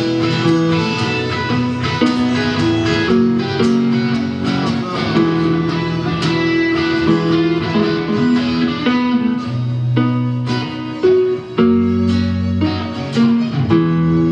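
Live band playing an improvised instrumental passage, led by guitar with sustained chords and plucked notes.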